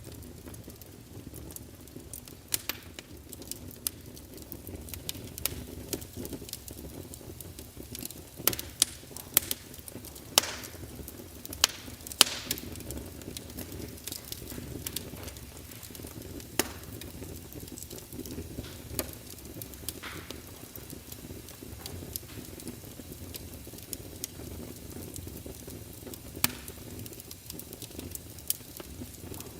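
Fire crackling: a steady low rumble of flames under irregular sharp pops and snaps, with a run of louder pops about a third of the way in.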